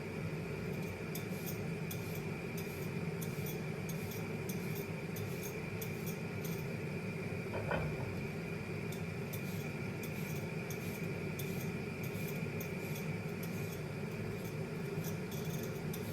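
Kitchen work with dishes and utensils: light clicks and taps, with a single clink about halfway through, over a steady background hum.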